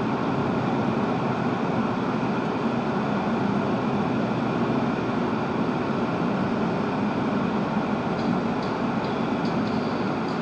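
Steady road and engine noise of a moving vehicle, an even rushing hum.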